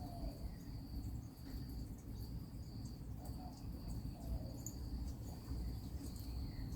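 A steady high-pitched insect trill, broken briefly now and then, over a low rumble.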